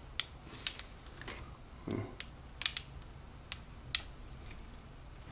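Sharp clicks and light taps of small metal engine parts being handled during a small-engine teardown, about seven irregular clicks.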